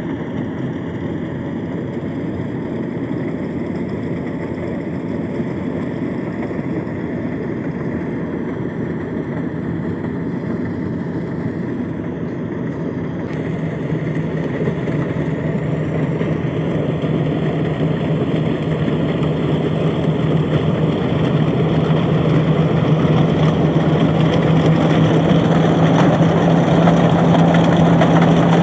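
Rice harvesting machine's engine running steadily, with a steady hum coming in about halfway through and the sound growing louder toward the end.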